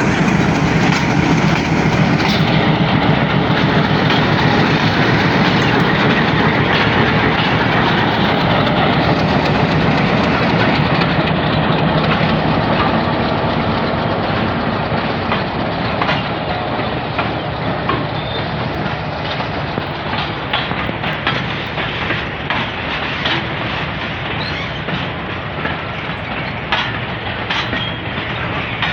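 Goods train passing close by: a continuous heavy rumble and rattle of freight wagons, with the wheels clacking over rail joints. Loudest for the first dozen seconds, then easing slightly as scattered sharp clicks come through.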